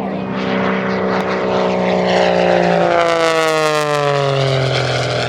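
Piston engine and propeller of a Pitts aerobatic biplane making a fast pass, its engine note dropping in pitch as it goes by, about three seconds in.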